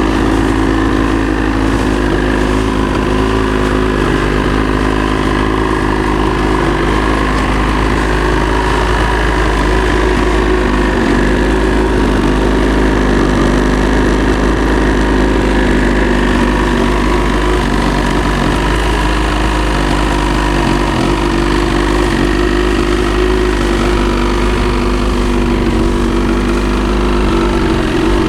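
Ski-Doo 850 E-TEC two-stroke twin snowmobile engine idling steadily just after a cold start in about -26 °C, held at a fast idle of around 1500 RPM.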